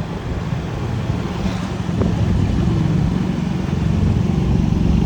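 Motorcycle engine running steadily while riding, with wind and road noise over it; it gets a little louder about two seconds in.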